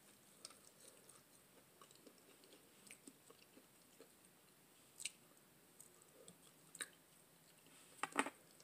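Faint close-up chewing of breaded fried catfish, mouth sounds only, with a few short sharp clicks; the loudest come about five seconds in and in a quick cluster near the end.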